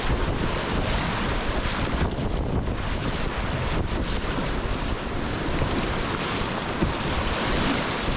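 Whitewater rushing around a kayak running river rapids, with wind noise on the microphone: a steady, dense hiss of moving water.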